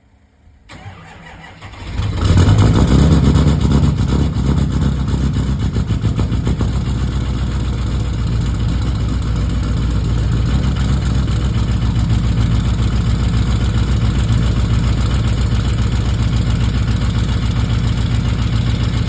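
2015 Duramax V8 turbo-diesel cranking briefly, catching about two seconds in and settling into a steady idle. It is a cold start in sub-zero weather on fuel the owner suspects has partly gelled in the filter, treated with Diesel 911.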